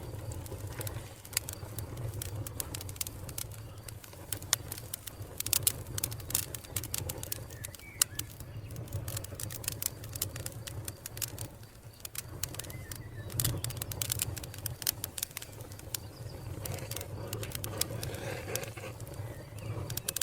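A wood fire crackling, with many sharp snaps and pops at irregular intervals, a few louder ones around five and eight seconds in, over a low steady hum.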